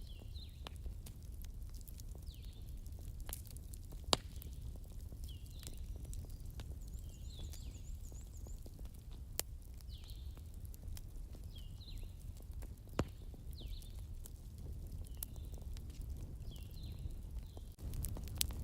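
Campfire crackling over a low rumble, with sharp wood pops now and then, three of them louder than the rest. Through it a short falling chirp repeats about once a second.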